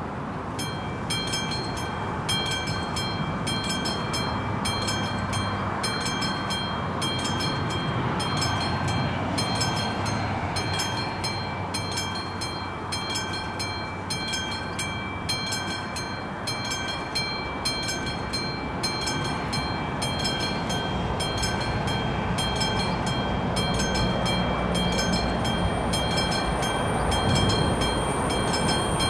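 Classic mechanical level-crossing warning bell starting to ring about a second in, struck about twice a second with a steady ringing tone. Under it a train's low rumble builds toward the end.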